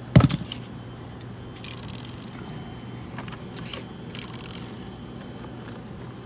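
A sharp clatter just after the start, then a few small clicks and scrapes of handling, over a steady low hum.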